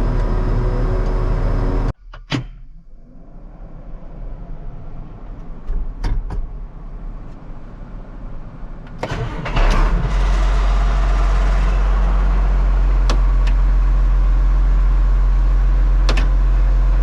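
Tractor engine running steadily, heard from inside the cab, cutting off abruptly about two seconds in. A quieter stretch follows with scattered clicks and knocks, then about halfway through a tractor engine starts and settles into a loud, steady low run.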